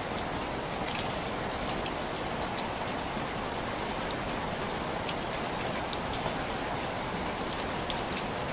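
Steady rain tapping on window glass: a constant hiss with scattered sharp ticks of single drops.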